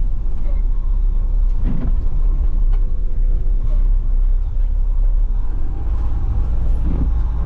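Front-load garbage truck's diesel engine running steadily under way, heard from inside the cab as a continuous low rumble with a faint steady whine above it.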